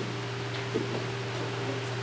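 Steady low hum, like room ventilation or a fan, with a faint higher steady tone over it and one soft knock a little under a second in.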